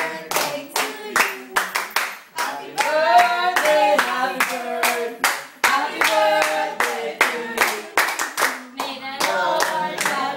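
People singing together while clapping hands in steady time, about two claps a second.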